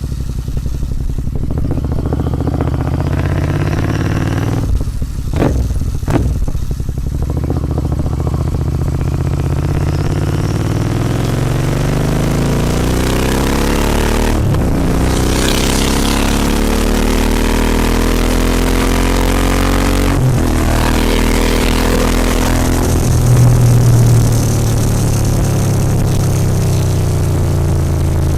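Royal Enfield Continental GT 650 parallel-twin engine breathing through Red Rooster aftermarket exhausts, pulling under acceleration while riding. The engine note climbs in pitch in long sweeps, with brief breaks at the gear changes about a fifth of the way in, halfway and about two-thirds through.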